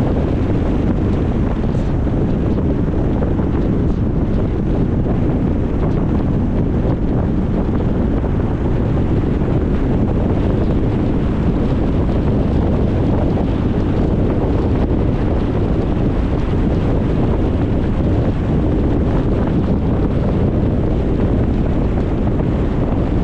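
Steady low rumble of wind and road noise from a car driving at an even speed, with wind buffeting the microphone.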